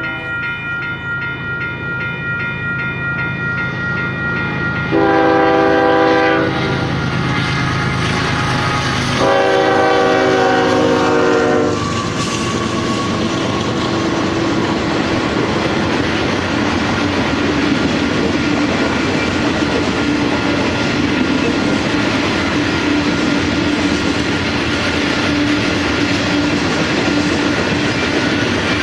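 Freight train's diesel locomotive horn: the tail of one blast at the start, then two long chord blasts about five and nine seconds in, the second falling slightly in pitch as the locomotive passes. After that comes the steady rumble and clickety-clack of covered hopper cars rolling past.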